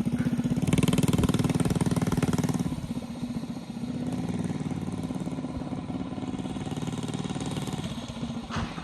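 Mini bike's small engine running steadily, dropping to a quieter level about three seconds in as the bike moves away.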